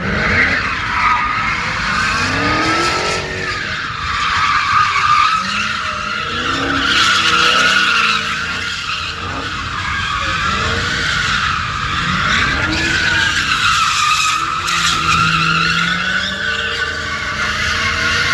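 Dodge Hellcat's supercharged Hemi V8 revving up and down while its rear tyres squeal steadily and without a break under sustained wheelspin, the squeal wavering in pitch.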